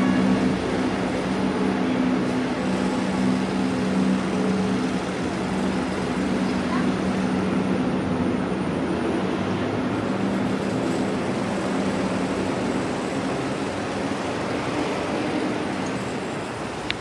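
Train running at a station platform: a steady engine drone over continuous rumbling noise, the drone strong at first and fading after about five seconds.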